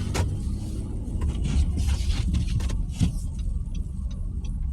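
Car cabin noise while driving on a snowy road: a steady low rumble of engine and tyres, with a hiss that swells from about a second and a half in to about three seconds in, and a few light clicks.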